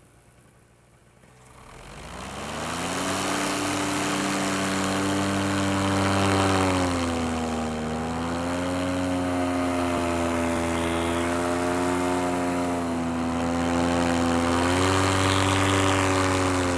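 Paramotor engine and propeller throttled up from near idle about two seconds in, then running steadily under power, the pitch easing off briefly around the middle and rising again near the end as the throttle changes.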